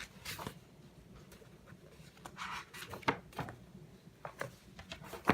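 Books being handled: paper rustling and soft knocks of books and covers being moved, in short irregular bursts.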